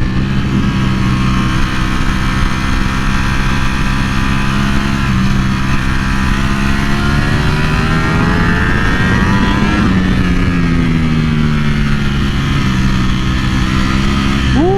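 Ducati Panigale V4R's 998cc V4 engine running hard with wind rushing past. Its pitch climbs for a few seconds midway as the throttle opens, then drops and settles as it eases off.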